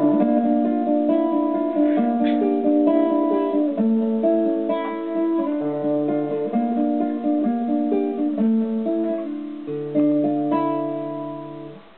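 Guitar playing plucked chords of the song's instrumental close, with no voice. The playing fades away in the last second.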